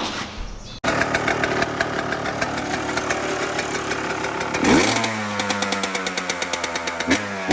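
2021 Yamaha YZ125's single-cylinder two-stroke engine running through a new FMF exhaust pipe. It comes in suddenly under a second in, gets a quick rev about five seconds in, then settles to a steadier, lower note.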